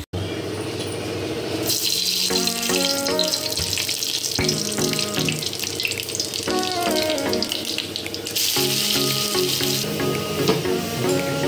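Hot oil sizzling in a kadai as food fries and is stirred with a metal spatula, under background music with a stepping melody.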